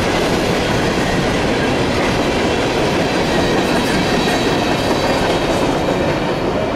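Norfolk Southern freight train of open-top hopper cars rolling past at close range: a loud, steady noise of steel wheels running on the rails.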